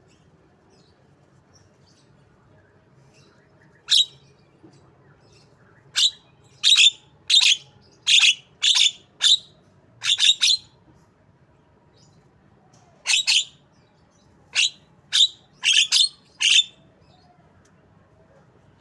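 Javan myna (jalak kebo) giving short, sharp, high calls in the style of a white-rumped shama (murai batu): a single call, then a run of about eight, a pause, and about six more.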